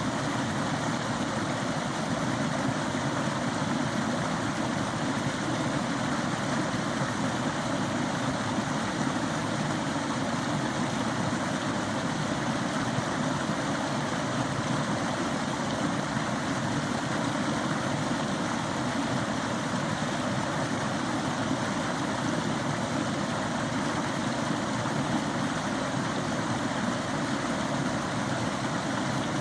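Stream water running, a steady even rush that stays constant throughout.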